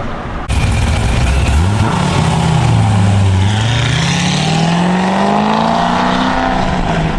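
Loud car engine and exhaust accelerating, starting suddenly about half a second in. The engine note dips, then climbs steadily in pitch for several seconds.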